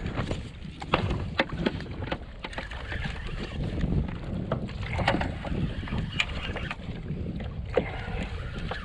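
Wind rumbling on the microphone while water moves around a kayak, with scattered sharp taps and clicks at irregular intervals.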